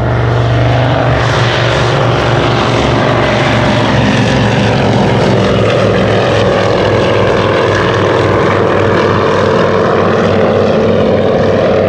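Piston engines and propellers of vintage twin-engined aircraft flying by, a loud steady drone with a pulsing beat in the low notes.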